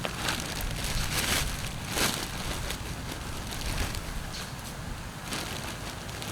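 Garden mulch rustling and pattering in irregular bursts as it is scattered and spread by hand, over a steady low rumble.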